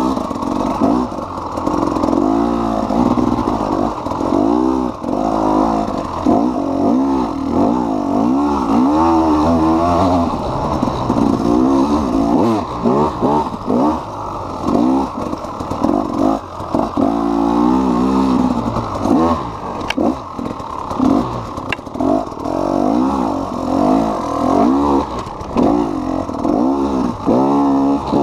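KTM EXC 300's single-cylinder two-stroke engine under riding, the revs climbing and dropping over and over with brief throttle-offs between pulls.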